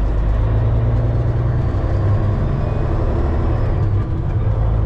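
Semi truck's diesel engine running with a steady low drone as the rig moves off.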